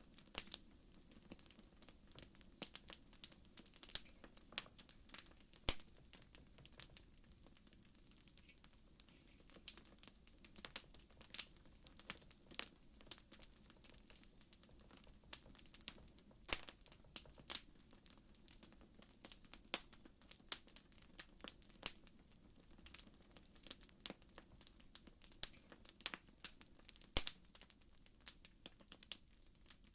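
Campfire crackling: quiet, irregular sharp pops and snaps, several a second, over a faint steady low background.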